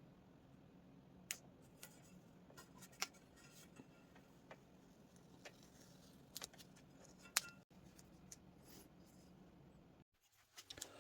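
Faint scattered small clicks and taps over a low steady hum, the sharpest click about seven seconds in. The hum drops out abruptly near the end.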